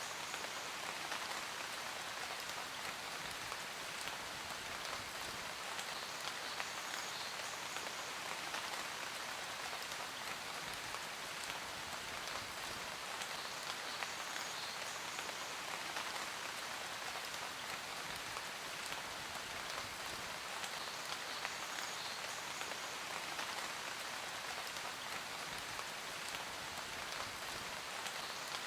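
Steady rain falling on a surface, a continuous hiss full of individual drops ticking.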